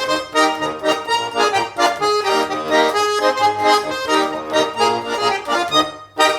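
Garmon (Russian button accordion) playing a lively instrumental introduction to a chastushki tune, chords in a steady rhythm. It breaks off briefly near the end, just before the singing comes in.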